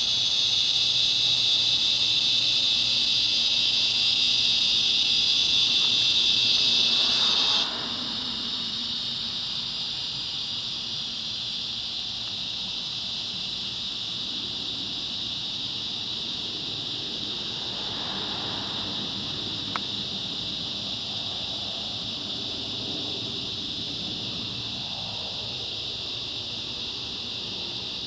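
Chorus of cicadas buzzing as a loud, steady, high-pitched drone. The loudest part cuts off abruptly about a quarter of the way in, and a quieter buzz goes on steadily after it.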